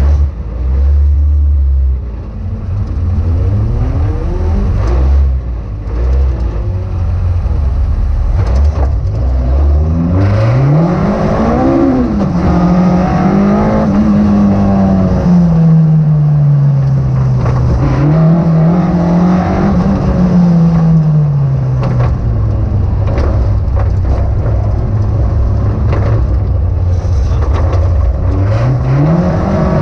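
Car engine heard from inside the cabin. It runs low and uneven at first, then accelerates hard about a third of the way in, with the revs climbing and falling back as it goes through the gears and eases off. It picks up again near the end.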